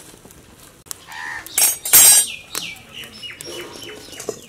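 Birds calling, with a few loud, harsh calls between about one and two and a half seconds in.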